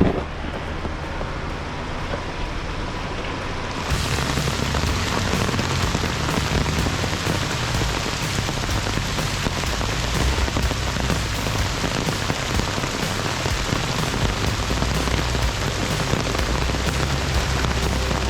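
Steady, heavy rain hiss with a low rumble underneath, starting abruptly about four seconds in; before that, a quieter low hum.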